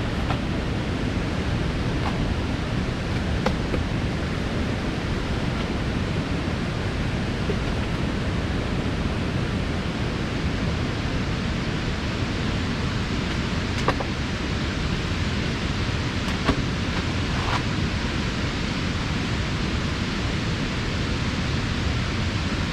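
Waterfall and stream rushing with a steady, even roar, with a few faint clicks over it.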